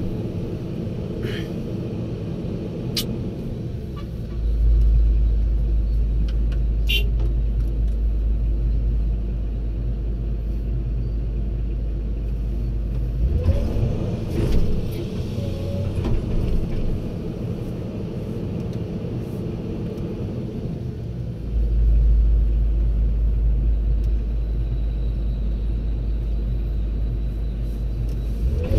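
Heavy diesel machinery running steadily at an excavation site. A deep low rumble swells twice, for several seconds each time, and there are a few sharp clicks.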